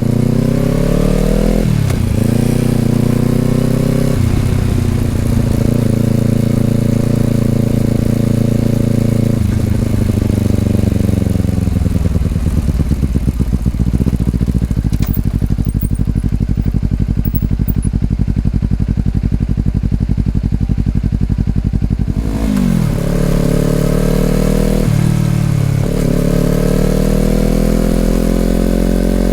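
Honda CBR250RR parallel-twin through an Over Racing aftermarket exhaust, heard on the ride. It pulls up through two gear changes and holds a steady speed, then runs down to idle for several seconds. Near the end it pulls away again with three quick upshifts.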